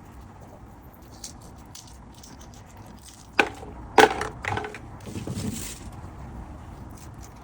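Hands doing kitchen prep work: a few sharp snaps and knocks close together around the middle, then a softer rustle.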